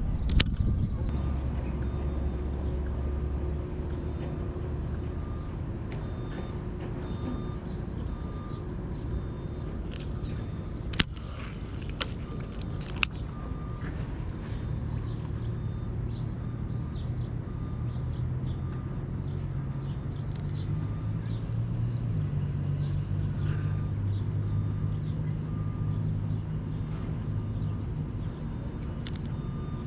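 A motor running steadily in the background, its low hum stepping up in pitch about halfway through. A few sharp clicks stand out over it.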